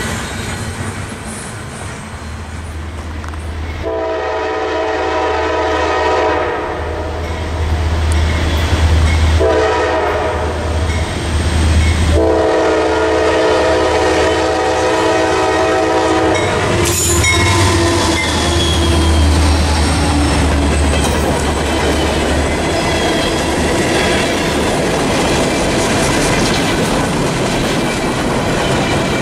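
Norfolk Southern freight train led by GE Dash 9 wide-cab diesel locomotives, sounding its horn in several long blasts for a grade crossing over the low rumble of the engines; the last blast runs about four seconds. From about 17 seconds in, the locomotives are past and the coal hoppers roll by with a steady clatter of wheels on rail joints.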